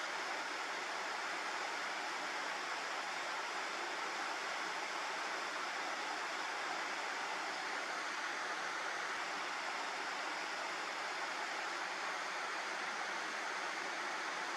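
Water pouring over a low river weir: a steady rushing with no change.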